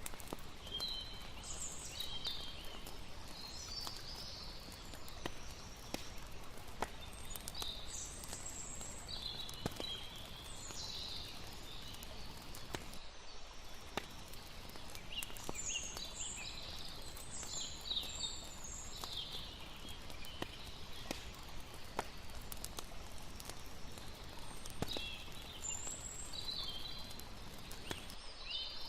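Layered campfire-by-the-water ambience: a fire crackling with frequent sharp pops over a steady wash of lapping water. Groups of high chirping calls come every few seconds.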